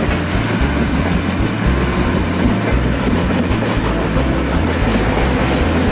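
Steam-hauled train of old passenger coaches rolling past on the rails, mixed with background music that has a stepped bass line.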